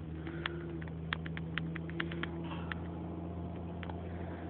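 Vehicle engine idling with a steady low hum, overlaid by a scatter of sharp ticks and clicks that thin out after about three seconds.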